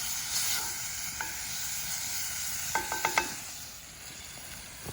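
Ground beef sizzling steadily as it browns in a cast iron pan over a hot campfire. A few sharp metallic clinks of a utensil stirring against the pan about three seconds in.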